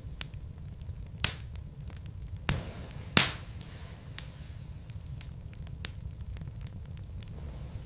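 Wood logs burning in a fireplace: scattered sharp crackles and pops over a low steady rumble, the loudest pop about three seconds in.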